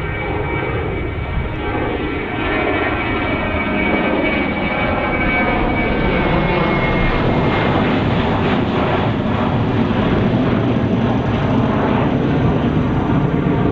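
Jet airliner's engines at takeoff thrust on departure: a steady, loud rush of engine noise that grows louder over the first half. A high whine in the first several seconds slowly drops in pitch and fades.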